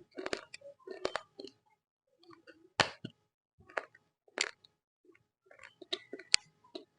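Roasted Multani mitti (fuller's earth clay) being bitten and chewed close to the microphone: a run of sharp, irregular crunches with short gaps between them.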